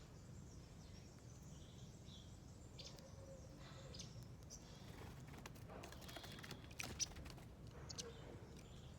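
Faint chirps of small birds over a low hum of background noise. Around the middle comes a quick run of light clicks and taps, with one sharp tap about seven seconds in.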